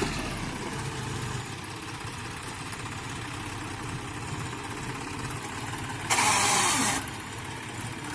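Modified John Deere tractor's diesel engine running steadily, with a loud burst of noise lasting about a second, about six seconds in.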